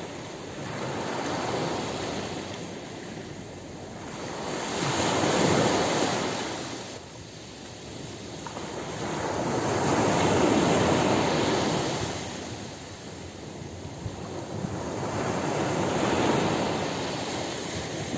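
Ocean surf washing onto a beach: rushing noise that swells and ebbs in slow surges, a small one about a second and a half in, then three larger waves about five seconds apart.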